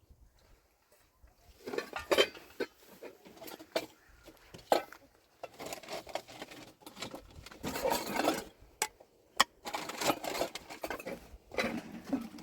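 Irregular clattering and rustling of things being handled, with scattered sharp knocks.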